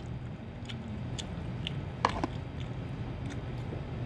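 A person chewing a mouthful of fried noodles, with faint cutlery ticks and one sharp clink of a metal spoon or fork about two seconds in, over a steady low room hum.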